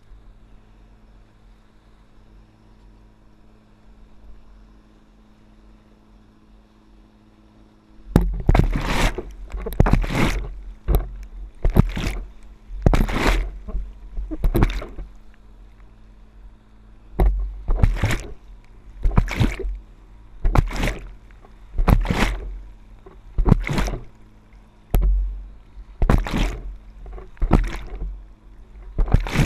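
Water splashing and sloshing in repeated surges, about one a second, starting about eight seconds in after a faint steady hum.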